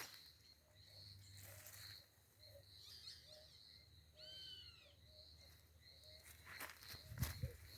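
Faint forest wildlife ambience: insects sing steadily with a high, pulsing tone, and a string of short low notes repeats throughout. A single arching bird call comes about four seconds in, and a few low knocks sound near the end.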